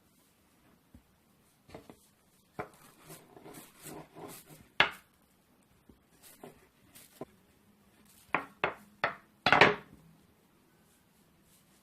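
Scattered taps and knocks of hand work on a kitchen work table while balls of baklava dough are dusted with cornstarch and pressed flat. There is a sharp knock about five seconds in and a quick run of knocks near the end, with faint rustling between.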